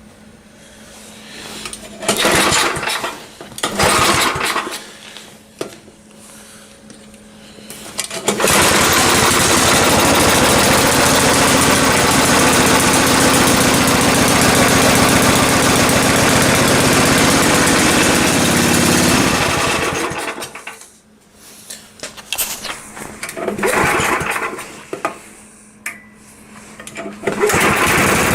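Toro snowblower engine being started. After two short start attempts it catches about eight seconds in, runs for about twelve seconds and then dies. A few more attempts follow, and it starts again near the end.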